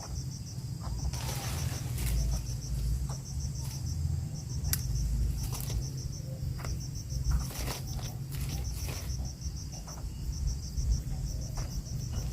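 An insect, likely a cricket, chirping in short high pulsed trills that repeat steadily, over a low rumble with scattered rustles and clicks.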